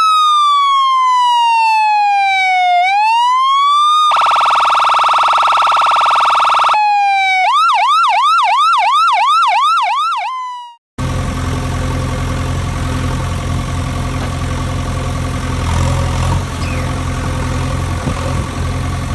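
Electronic siren: a slow wail falling then rising, a steady buzzing horn tone for a few seconds, then a fast yelp warble. It cuts off suddenly about eleven seconds in, and a steady engine idling takes over.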